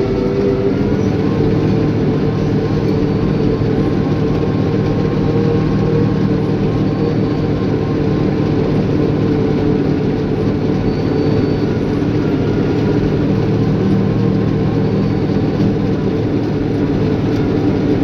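Caterpillar bulldozer's diesel engine running steadily at working speed.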